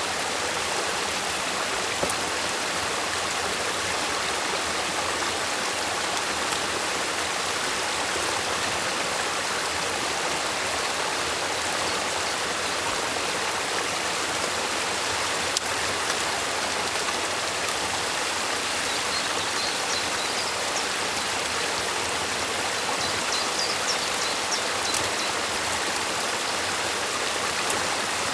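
Stream water rushing steadily at a beaver dam, with a few faint clicks and some brief high chirps about two-thirds of the way through.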